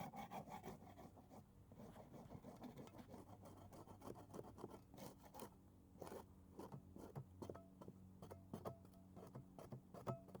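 Paint scraper dragged in short repeated strokes over weather-damaged painted wood, scraping off old paint. Faint, with a low steady hum underneath.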